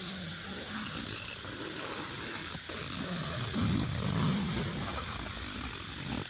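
Rustling and shuffling as a bag is handled and settled inside a tent, a little louder about halfway through, over a faint steady hiss.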